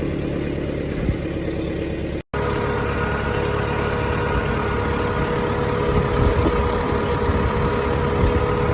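Farm tractor engine running steadily. The sound cuts out for a moment about two seconds in; afterwards a steady whine sits over the engine drone.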